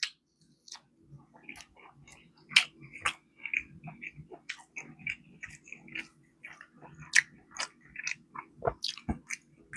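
A person chewing and biting into fried chicken close to the microphone: irregular crunching and wet mouth clicks.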